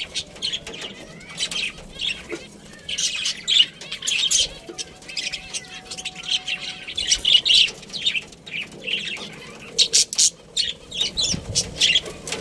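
Budgerigars chirping and twittering in quick, irregular bursts of short high notes.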